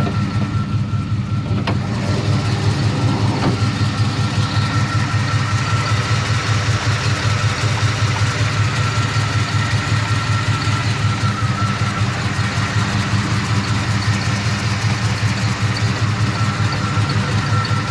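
A 1984 Chevrolet C10's 305 small-block V8 idling steadily some minutes after a cold start, with a thin steady high tone above the engine note.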